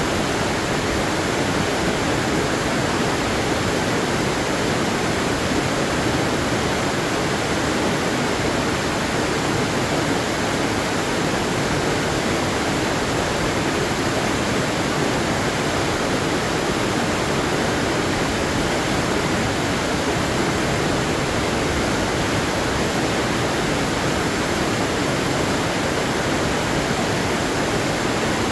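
Waterfall: a steady rush of falling water, an even hiss with no breaks or changes.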